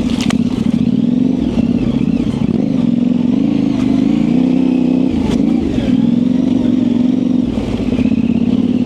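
Yamaha Ténéré 700 parallel-twin engine running at an easy trail pace, its pitch rising and falling a little with the throttle. A few sharp clicks and clatter come through over it.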